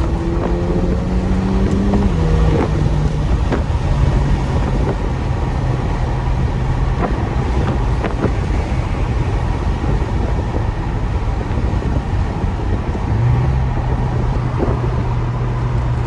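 Straight-piped Infiniti Q50 exhaust heard from inside the car: during the first couple of seconds it rises in pitch under hard acceleration and drops twice as it shifts up. It then settles into a steady low drone while cruising, with a few short sharp cracks.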